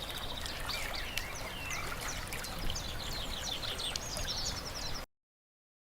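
Small birds chirping and trilling, with one fast trill near the end, over a steady low rush of background noise. It all cuts off abruptly about five seconds in.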